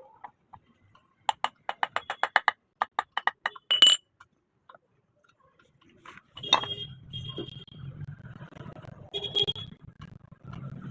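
A quick run of about a dozen sharp metallic taps as ceiling fan parts are worked together, then a steady low hum from about six seconds in.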